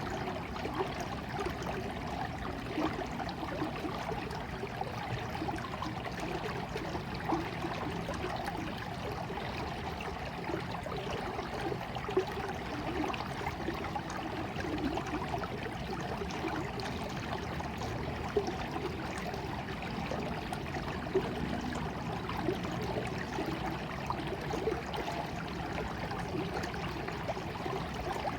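Small stream of water trickling and bubbling steadily, with a few slightly louder splashes now and then.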